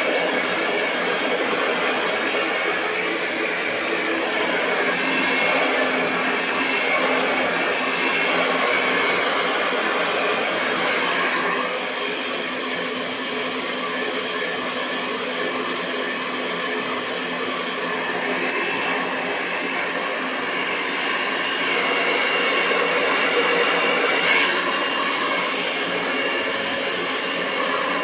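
Hair dryer blowing a continuous stream of air, a steady whooshing hiss with a faint motor whine, swelling and easing slightly in loudness.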